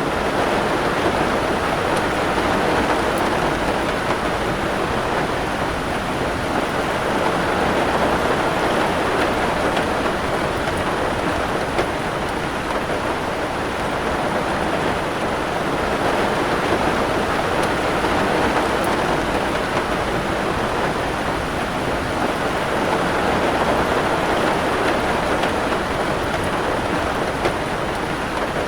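Steady rain falling, an even dense hiss with no distinct drops or thunder.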